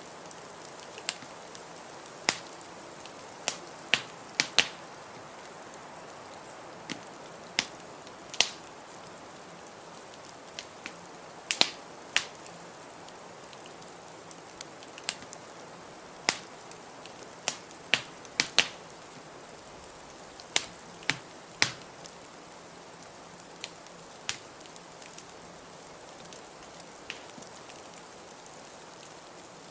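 Wood fire crackling in a fireplace: sharp, irregular pops and snaps, sometimes two in quick succession, over a steady hiss.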